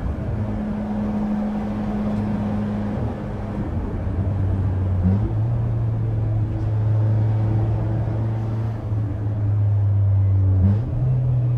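Peugeot 206's four-cylinder engine with a straight-piped exhaust and open cold-air intake, the car driving under steady engine speed. The note holds a nearly constant pitch, breaks briefly about five seconds in, and jumps in pitch near the end.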